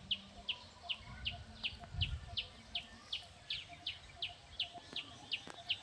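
A bird repeating one short, high, downward-slurred note about three times a second in an even, unbroken series. A faint low rumble comes about two seconds in.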